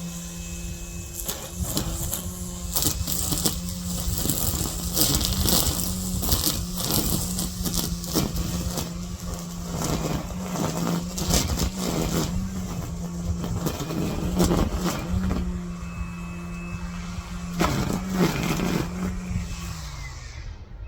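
String trimmer (weedeater) running at a steady high speed, its line striking weeds and brush in many sharp ticks and rattles. Near the end the motor winds down as the throttle is let off.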